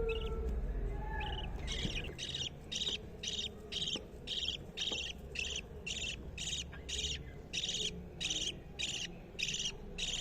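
Budgerigars chirping: short, evenly repeated calls, about two a second, starting about two seconds in.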